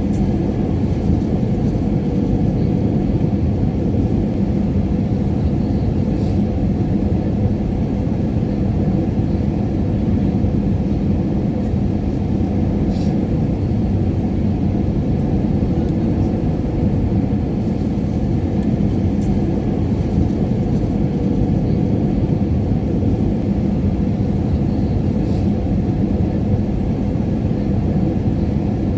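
Airliner cabin noise: the steady low rumble of jet engines and rushing air heard from inside the cabin, with a faint steady hum running under it.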